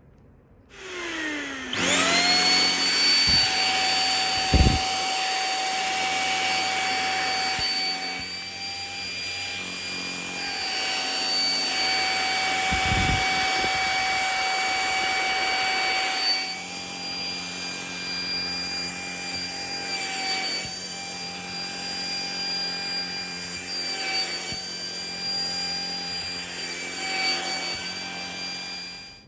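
Deerma CM919 handheld dust mite vacuum cleaner switched on: its motor spins up within a second to a steady high whine and runs, the pitch wavering now and then, with two short low thumps, before it is switched off and cuts out.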